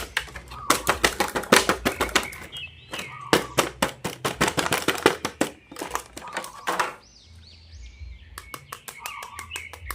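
Rapid runs of sharp clicks and crackles, as of plastic toy packaging being handled and opened, coming in bursts. The clicks stop for a moment near the middle, with a few high chirping sounds, then pick up again near the end.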